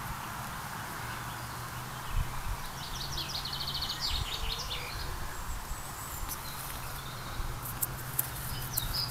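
Outdoor ambience with birdsong: a quick trill of high repeated chirps about three seconds in and a few more chirps near the end, over a steady background hiss.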